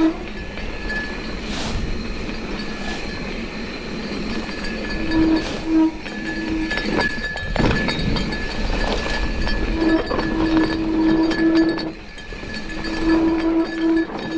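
A mountain bike being ridden down a dirt trail: steady tyre and rattling noise over the ground, with scattered knocks. A steady buzz starts and stops several times.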